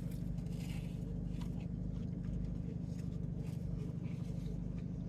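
People biting and chewing burgers, with light scattered rustling and crinkling of the paper wrapper and box, over a steady low hum inside a car.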